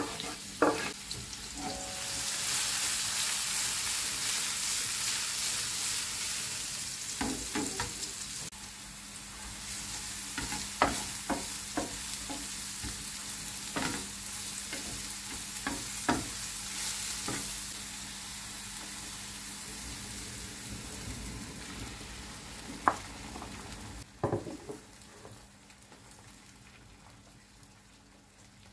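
Sliced leeks frying in vegetable oil in a frying pan, sizzling steadily, with a wooden spatula knocking against the pan now and then as they are stirred. The sizzle swells about two seconds in and dies down over the last few seconds.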